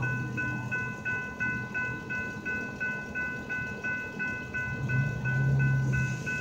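A freight train of hopper cars rolls past, the cars rumbling on the rails, while a railroad crossing bell rings rapidly, about three dings a second. A low hum grows louder about five seconds in.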